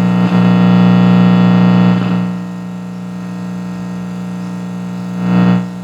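Attack CM 1515 active speaker box, switched on with no audio input, putting out a loud, steady, distorted buzzing hum through its loudspeaker. This is the strange noise the customer complained of, which the technician thinks is a cooling fan's noise getting into the audio. The hum drops in level about two seconds in and swells briefly near the end.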